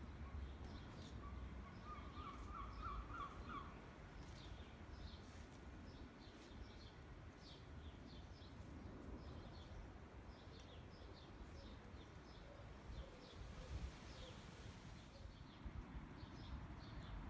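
Faint outdoor birdsong: many short high chirps repeated throughout over a low background rumble.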